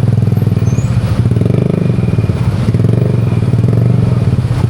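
Motor scooter engine running steadily while riding, picked up close by a handlebar-mounted microphone.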